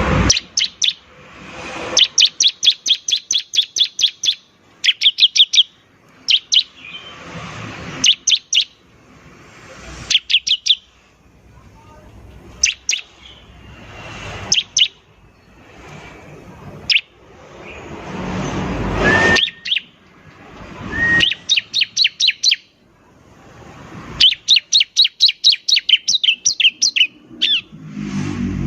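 Bar-winged prinia (ciblek, semi type) singing hard: rapid strings of sharp, high chirps in bursts every one to three seconds, with a hiss that swells between the bursts.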